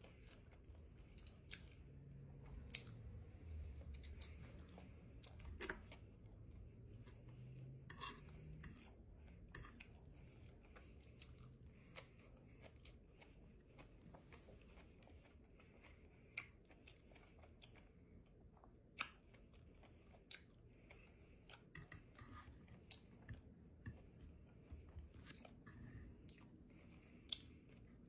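Faint close-miked chewing: scattered wet mouth clicks and smacks of a person eating fried buffalo catfish.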